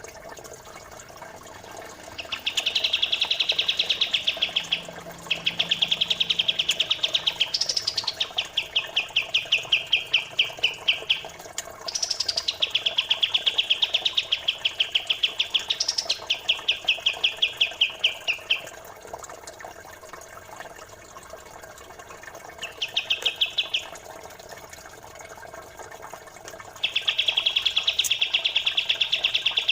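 Pied triller (kapas tembak) song: long, very rapid trills repeated with short pauses between them, some phrases opening with a brief rising note. A faint steady babble of running water lies underneath.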